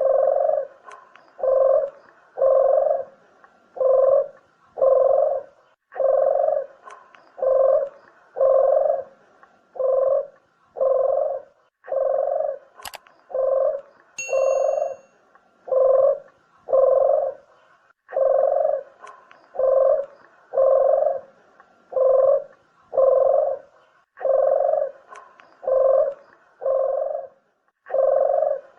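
Barbary dove (puter) cooing over and over, about one short low coo a second in even runs. About 13 s in there is one sharp click, followed by a brief high beep.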